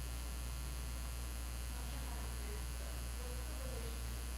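Steady low electrical mains hum, the buzzing fault on the recording, with no change in level.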